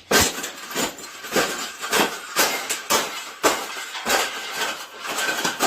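Wire bird cage being bent and folded flat by hand: sharp metal clanks about twice a second with rattling in between.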